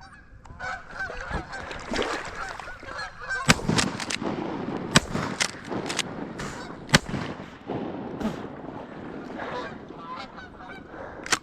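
A flock of Canada geese honking, with three loud shotgun shots about a second and a half apart in the middle.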